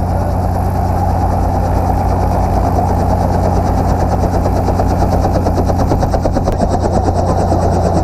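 Helicopter running steadily, heard from on board: a continuous low engine hum with a fast, even beat from the rotor.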